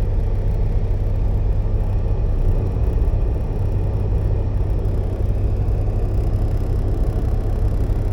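Semi truck's diesel engine running with a steady low rumble and no separate knocks or changes.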